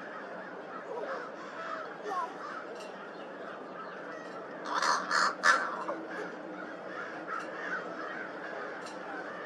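Crow giving three loud, harsh calls in quick succession about five seconds in, with softer short calls scattered through the rest.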